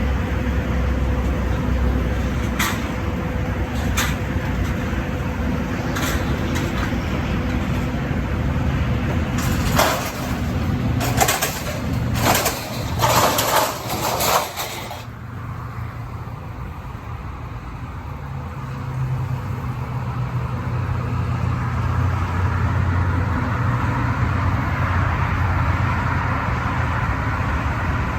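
Motor vehicle running with a steady low rumble, broken about a third of the way through by several loud hissing bursts, after which the low hum carries on and grows louder again.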